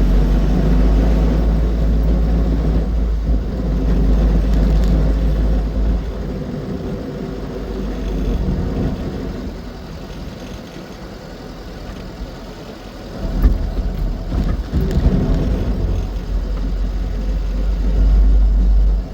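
Austin Seven Ruby running on the road, a low rumble that eases off for several seconds in the middle and comes back abruptly about two-thirds of the way through.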